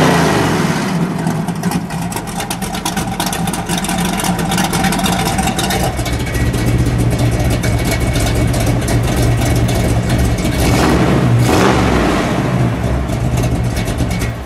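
1964 Chevrolet Biscayne's 409 cubic-inch V8 running loudly at idle, revved up once about eleven seconds in, then switched off at the very end.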